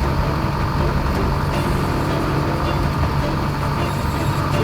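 Widebeam boat's engine running steadily under way, a constant drone with an unchanging pitch.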